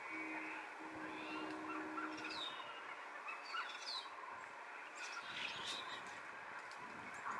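Birds calling, a scatter of short chirps and calls through the whole stretch, with a steady low hum for the first two and a half seconds.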